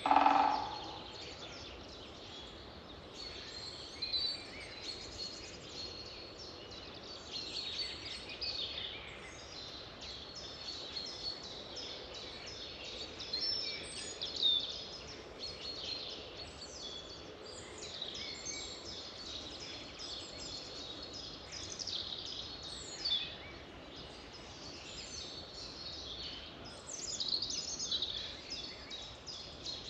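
Several wild birds singing with many short chirps and high trills, overlapping throughout, over a steady background hiss. A brief louder, lower sound comes right at the start.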